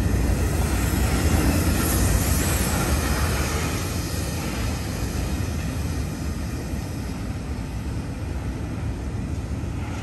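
CSX freight train rolling past on street-running track: a steady deep rumble and rushing of wheels on rail, slowly fading as the train moves off.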